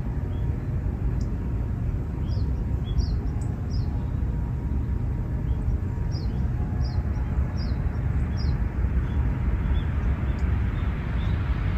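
Small birds chirping: short, high, falling chirps, several in quick succession a few times, over a steady low outdoor rumble.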